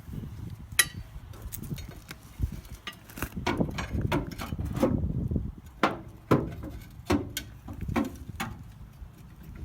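Irregular metallic knocks and clinks of hand tools working at a pickup's stuck rear brake drum, a few sharper strikes among lighter taps.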